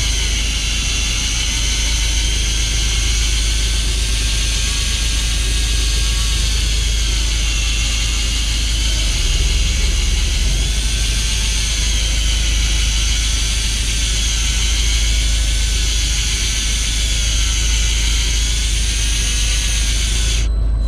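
Fishing boat's engine running: a steady low rumble with a whine that rises and falls every couple of seconds. The higher part of the sound cuts off abruptly just before the end.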